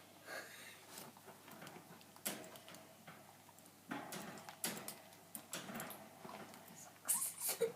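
Pet rats moving about their cage: irregular small clicks, knocks and scrabbling, with a louder clatter near the end.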